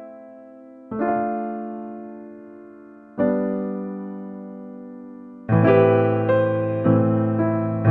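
Background music on electric piano: slow chords struck and left to fade, then, about five and a half seconds in, a fuller, louder passage with lower notes and quicker chord changes.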